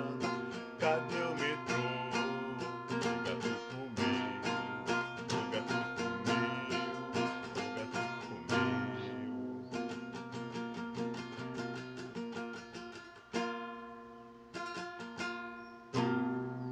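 Instrumental song accompaniment: a guitar strummed in quick strokes, slowing near the end into three separate chords, the last left to ring out.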